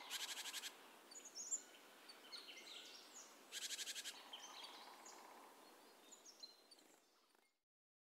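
Faint birdsong: a rapid trill of quick notes heard twice, about three seconds apart, with scattered chirps and short whistles in between, fading out near the end.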